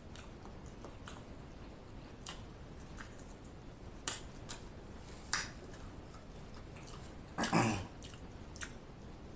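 Close-miked eating sounds: sparse wet mouth clicks and lip smacks from chewing, about half a dozen spread out, with one louder mouth sound about seven and a half seconds in.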